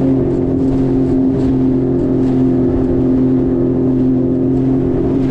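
Jet ski engine running at a steady cruising speed, a constant drone that holds one pitch throughout.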